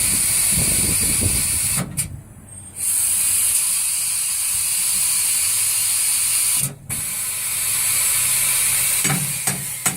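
Compressed air hissing steadily from a pneumatic tire changer, cutting out briefly twice, with a few sharp mechanical clicks from the machine near the end.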